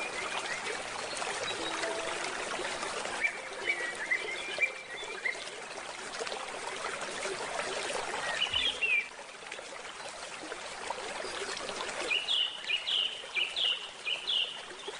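Water trickling steadily in a stream, with small birds chirping over it. There are short runs of high chirps a few seconds in and again around the middle, then a quick series of chirps near the end.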